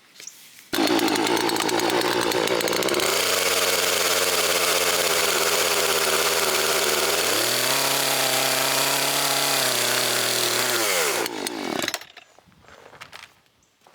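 Poulan Pro PR4218 two-stroke chainsaw running at high revs. It starts abruptly under a second in, its pitch drops and later rises again as the load changes, then it winds down and stops about twelve seconds in.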